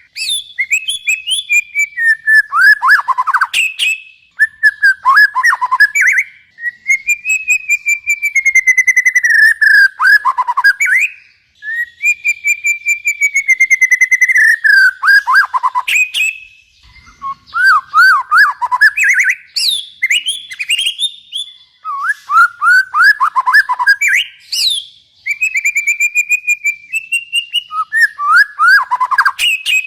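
Songbird singing in a long run of varied phrases: quick falling whistled notes and trills alternating with longer, slightly wavering held whistles, broken by short pauses.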